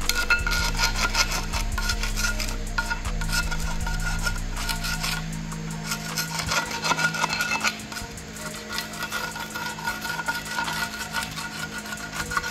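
Light metallic clinks, taps and scraping from hand tools and engine parts being handled, over a steady low hum.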